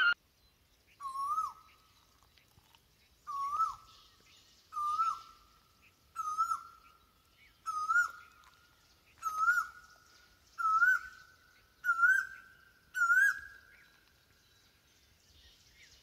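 A bird calling repeatedly: nine short whistled notes, roughly one every one and a half seconds, each with a quick bend in pitch. The notes creep slightly higher and come closer together toward the end.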